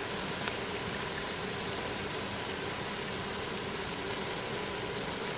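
Chopped vegetables frying in a stainless steel pot, a steady even sizzle.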